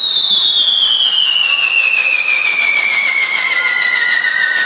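Loud whistling firework: one long whistle that falls steadily in pitch, with a second, fainter whistle coming in late.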